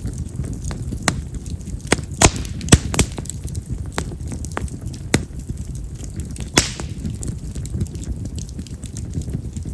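Mountain cherry (yamazakura) firewood burning in a campfire, with a steady low rumble of flame and sharp crackling pops scattered throughout, the loudest a few seconds in. This wood is known for loud, firecracker-like popping.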